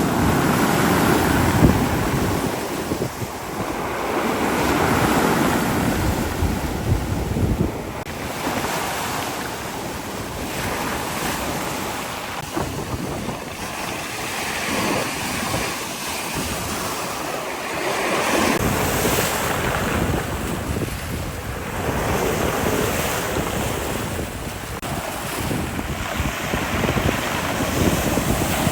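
Rough sea, with waves breaking and washing in one after another and the sound swelling and easing every few seconds. Strong wind buffets the microphone.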